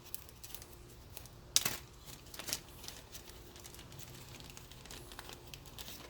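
Faint handling noises of small parts: light clicks and crinkling as a new O-ring is readied for the oil filter housing cap, with two sharper clicks about a second and a half and two and a half seconds in.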